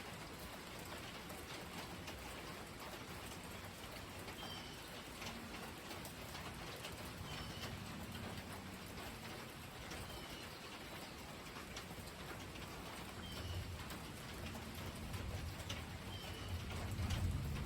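Steady rain falling, with scattered drips. A bird gives a short chirp about every three seconds. A low rumble of thunder builds over the last few seconds.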